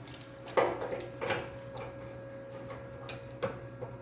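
Several sharp knocks and clicks of tools and metal parts being handled during frame work, the loudest about half a second in, over a faint steady hum.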